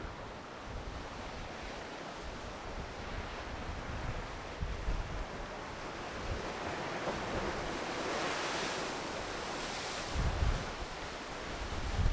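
Ocean surf washing onto the shore, swelling louder about eight seconds in, with gusts of wind buffeting the microphone.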